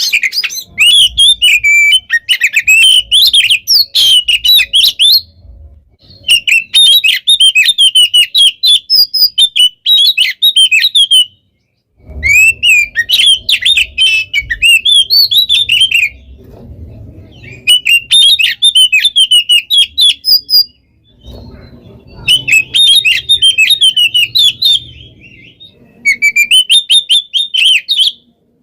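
Oriental magpie-robin (kacer) singing loudly in a rapid, densely packed stream of varied whistles and trills. It comes in six bursts of a few seconds each with short pauses between them: the nonstop 'gacor' song of a bird in full song.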